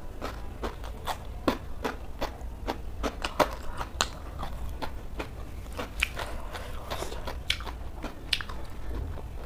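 Crunchy chewing of shredded cabbage salad, with sharp, irregular crunches a few times a second.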